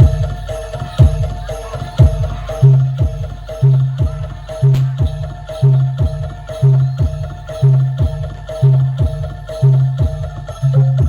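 Bantengan percussion music from East Java, played at a steady, driving pulse. Heavy drum beats fall about once a second, each often followed by a booming low tone. Short, repeated metallic pitched notes sound several times a second on top.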